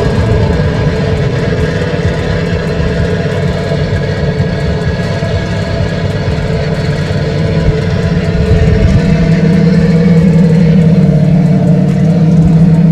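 Car engine sound running steadily at idle, with its low hum growing stronger about nine seconds in.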